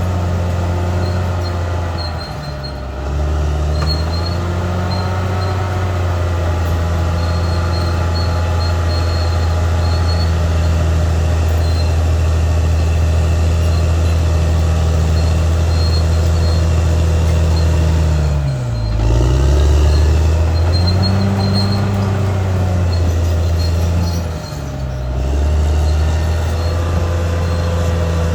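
Caterpillar D6R XL bulldozer's diesel engine running steadily at working speed. Its pitch dips briefly and climbs back three times: near the start, about two-thirds of the way in, and near the end.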